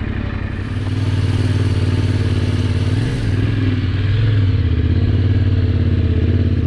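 Yamaha Ténéré 700's parallel-twin engine running under way. The rider opens the throttle about a second in, and the engine note dips briefly near the middle.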